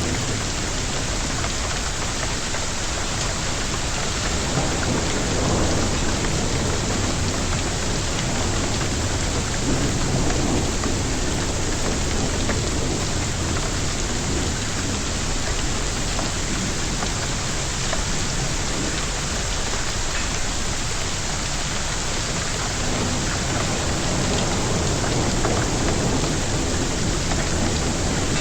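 Heavy storm downpour falling steadily, with several low rumbles of thunder swelling and fading.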